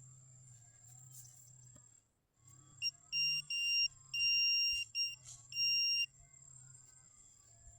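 Metal detector giving a run of high-pitched beeps of uneven length, about six in all, starting a little under three seconds in and lasting about three seconds, as it passes over a metal target.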